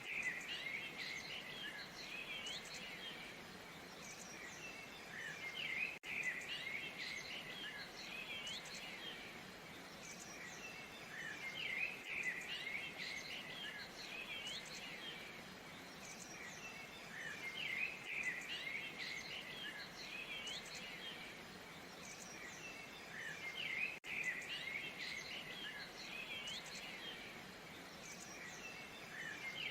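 Small birds chirping and calling over a faint, steady rush of falling water. The same few seconds of birdsong repeat about every six seconds.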